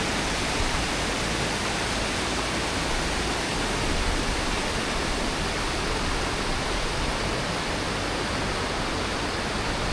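Rushing stream water: a steady, even rush with no breaks.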